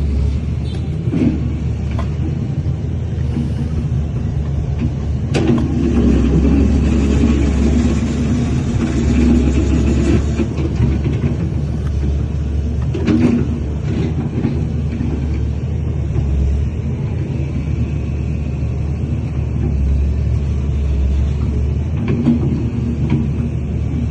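Diesel engine of heavy earthmoving machinery running steadily, with a few sharp knocks along the way, the clearest about five seconds in and about thirteen seconds in.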